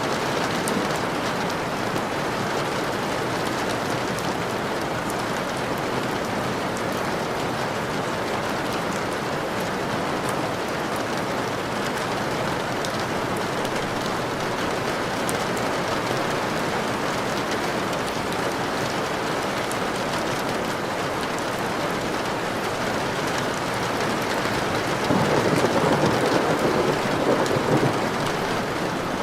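Steady rain, a dense even hiss. About 25 seconds in, a louder rumble of thunder swells for roughly three seconds.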